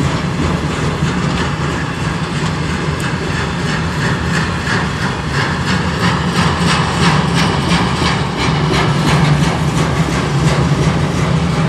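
Freight train cars rolling past at speed, steel wheels clicking steadily over the rail joints, over a steady low engine hum.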